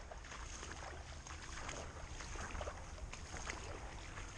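Low wind rumble on the microphone, with faint, irregular rustles and small crackles throughout.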